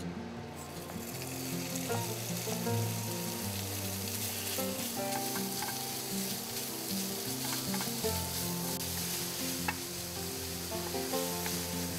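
Minced pork sizzling in hot oil in a nonstick frying pan while a wooden spatula stirs and breaks it up. The sizzle sets in about half a second in and then holds steady, with a few short scrapes from the spatula.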